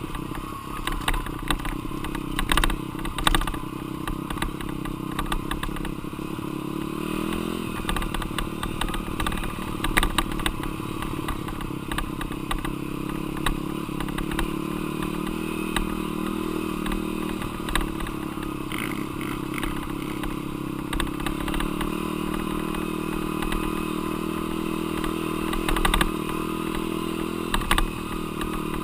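Dirt bike engine running under riding, its pitch rising and falling with throttle and gear changes, with scattered clattering knocks from the bike over rough ground.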